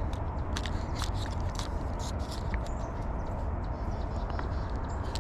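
Steady rushing background noise with many small scattered clicks and ticks.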